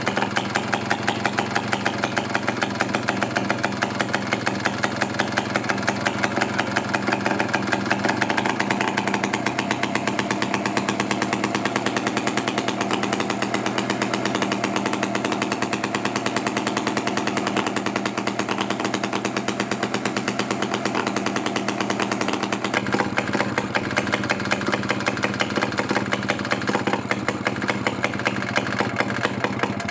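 Villiers 150cc two-stroke engine of a vintage Teles Smith two-man chainsaw running steadily on its first start in over 30 years.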